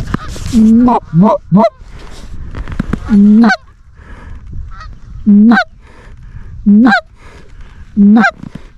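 Canada goose honks, loud and close: seven in all, with a quick run of three near the start and then one about every one and a half seconds, each call breaking upward in pitch. Fainter honking continues between them.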